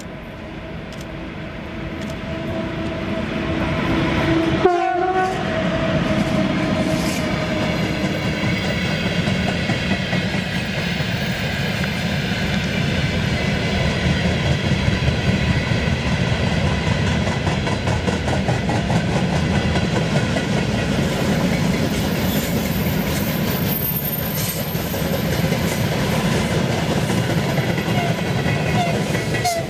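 A VL10U electric locomotive sounds its horn as it approaches, then a long train rolls steadily past with the wheels clacking over the rail joints. The horn has a short break about five seconds in and ends by about eight seconds.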